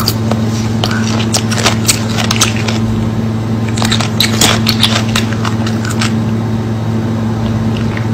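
A person eating off a fork: irregular mouth clicks, smacks and crunches of chewing, over a steady low hum.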